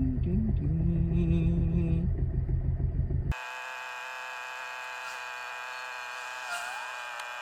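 Alfa Romeo GT Junior's twin-cam four-cylinder engine running with a low rumble, its pitch rising and falling. About three seconds in the sound cuts off abruptly to a quieter, steady hum of several held tones.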